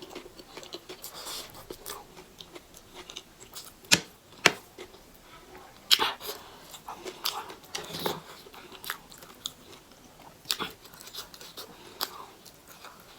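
A person chewing food close to the microphone, with irregular wet mouth clicks and smacks. The sharpest snaps come about four seconds in, half a second later, and again near six seconds.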